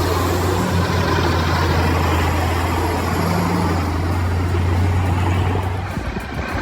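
Heavy vehicle engine running with a steady low hum, which drops away about six seconds in.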